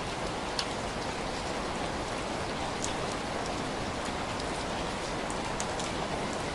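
Steady, even rain, with a few sharp crackles or ticks scattered through it.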